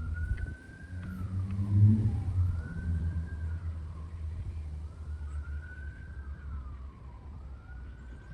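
A siren wails faintly in the background, its pitch rising and then sliding down about every two seconds, over a vehicle engine running with a low rumble that swells briefly about two seconds in.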